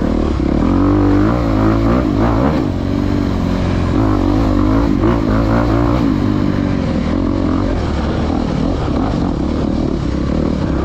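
Dirt bike engine under way, revving up and down with the throttle, its pitch rising and falling every second or so.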